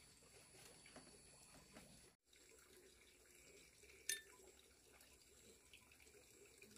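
Near silence: faint running water, with one sharp click about four seconds in.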